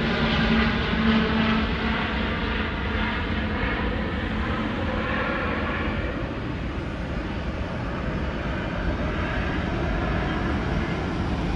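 Antonov aircraft's engines at takeoff: a loud, steady rumble with a humming tone that fades out in the first couple of seconds, the noise easing gradually over the next few seconds and then holding level.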